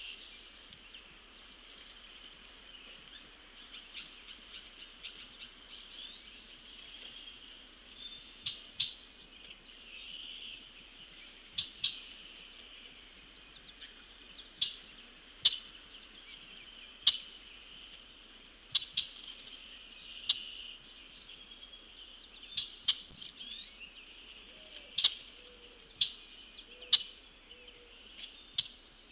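Small birds chirping and singing steadily, cut through by sharp, irregular taps every second or two, loudest in the second half: a pileated woodpecker pecking at a suet feeder.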